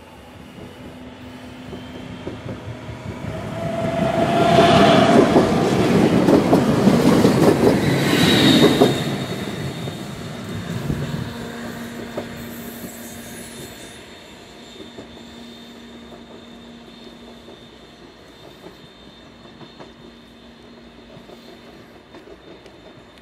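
Siemens Desiro diesel multiple unit passing close by, its wheels and engine loudest between about four and nine seconds in, with brief wheel squeals. It then fades as the train runs off, leaving a low steady hum.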